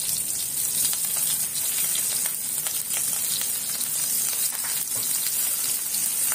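Stuffed pomfret fish frying in hot oil in an iron pan: a steady sizzle with many small crackles and pops.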